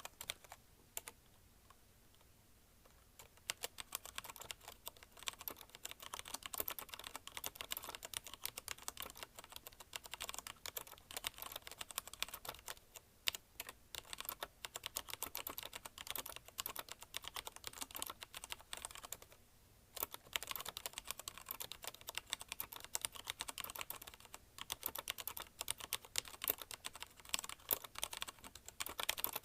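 Fast continuous typing on a mechanical keyboard with linear Cherry MX Red switches, a dense run of key clicks and bottoming-out clacks, broken by brief pauses about two seconds in and again around two-thirds of the way through.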